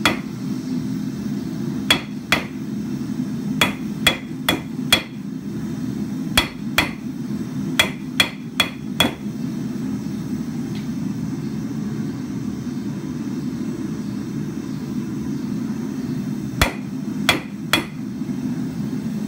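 Hand hammer striking a steel rod on an anvil to straighten out a bow. The sharp blows come in quick irregular runs, about a dozen in the first nine seconds, then stop for several seconds before three more near the end. A steady low hum runs underneath.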